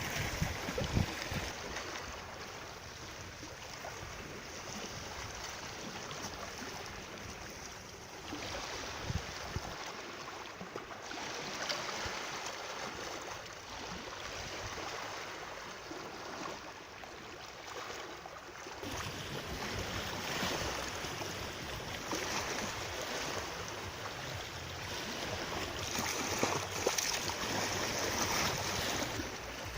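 Water flowing and splashing in a steady rush, with the sound shifting in level and brightness a few times.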